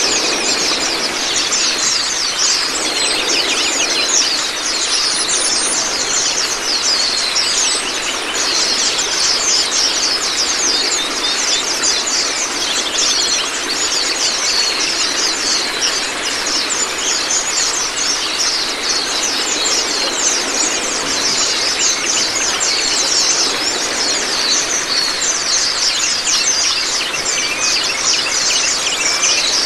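Running water with a steady splashing rush, overlaid by a small songbird's rapid, high-pitched twittering song that continues almost without pause.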